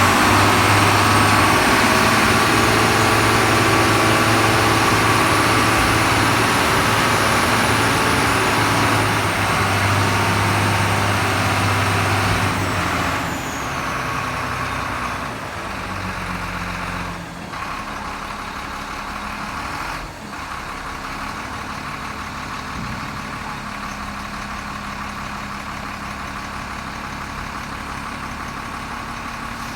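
Diesel engine of a Sinotruk HOWO 8x4 dump truck running, loud with a strong low hum for about the first twelve seconds, then dropping to a lower, steadier running sound. Two short sharp sounds come later on.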